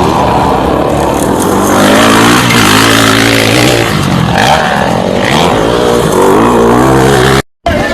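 Motocross bike engines revving hard, the pitch repeatedly rising and falling with the throttle. The sound cuts out abruptly for a moment near the end.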